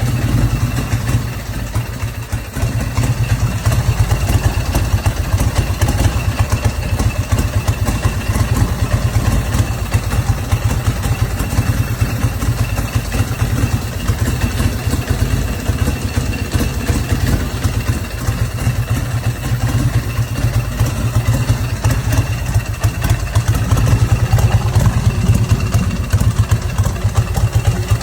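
Custom Harley-Davidson motorcycle engine idling steadily, a rapid, even low pulse.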